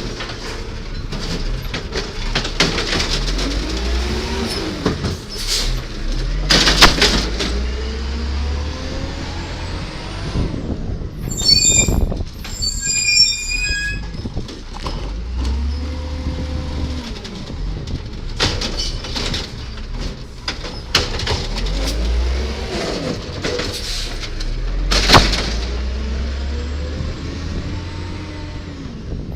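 Diesel engine of a 1999 Volvo Amrep Octo automated side-loader garbage truck working its route, revving up and dropping back several times. There are sharp bangs, the loudest about a quarter of the way in and again near the end, and a high squeal about halfway through.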